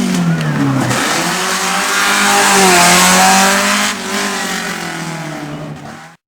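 Mercedes 190E rally car's engine revving hard at full load. Its pitch falls about a second in, then climbs and wavers again, and the sound cuts off suddenly near the end.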